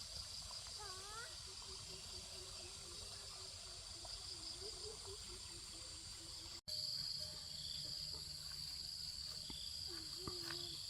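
Steady, shrill drone of insects such as crickets or cicadas, constant in pitch. It cuts out for an instant about two-thirds of the way through and comes back slightly louder.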